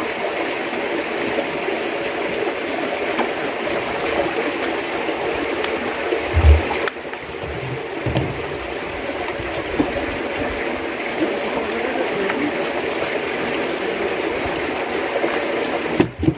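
Steady sound of running water, like a stream flowing into a pond, with a couple of short low thumps about six and eight seconds in.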